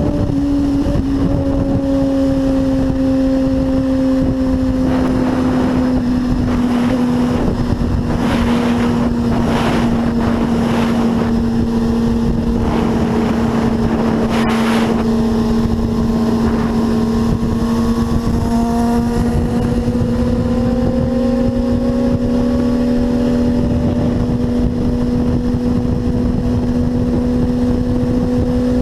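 A vehicle engine droning at a nearly steady high pitch under way at speed, with wind rushing over the microphone; the pitch sags a little and climbs back near the end.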